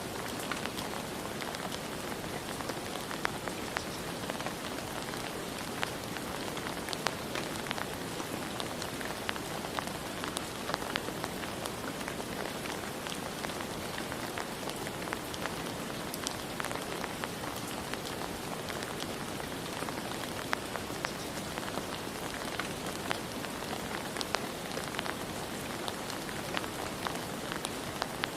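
Steady rain falling, an even hiss with many individual drops tapping sharply and irregularly on a surface.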